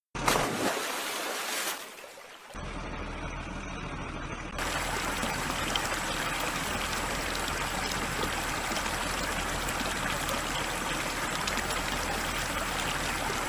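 River water rushing steadily, an even hiss of flowing water. It opens with a brief louder burst of noise and dips for a moment about two seconds in.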